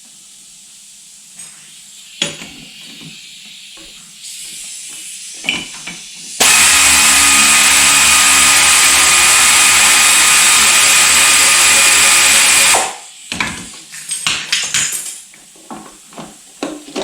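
A power tool motor runs steadily and loudly for about six seconds, starting about six seconds in and cutting off abruptly. Faint clicks and handling knocks come before and after it.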